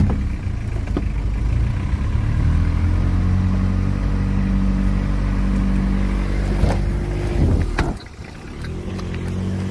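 Vehicle engine running while driving, rising in pitch over the first few seconds and then holding steady. Near the end come a couple of sharp clicks, the level drops, and the engine carries on more quietly.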